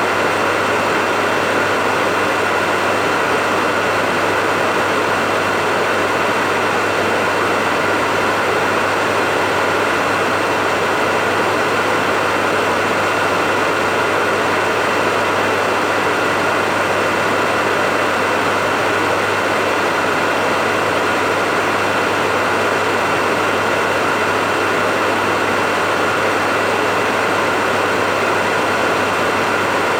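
Hair dryer running steadily: an even rush of air with a thin high whine over a low motor hum.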